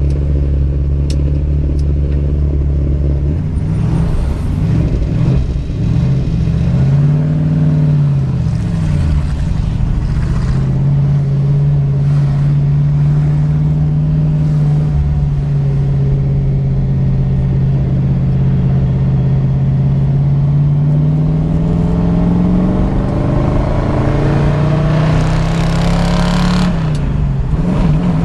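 1966 Ford Mustang's 289 V8 engine and exhaust pulling the car along. The pitch rises and falls once about seven to nine seconds in, holds steady for about ten seconds, then climbs steadily. Near the end it drops suddenly and climbs again, like an upshift in its 3-speed manual gearbox.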